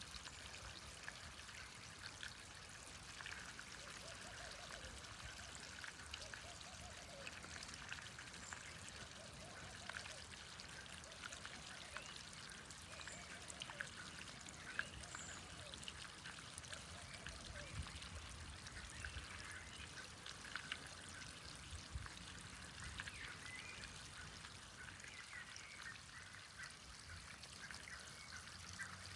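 Small stream trickling and babbling, faint and steady.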